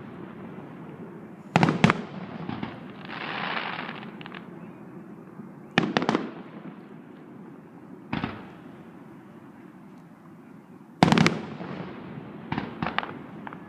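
Aerial firework shells bursting: sharp bangs with rolling echoes, about five bursts, some coming as quick doubles or clusters of cracks. There is a brief hiss about three seconds in.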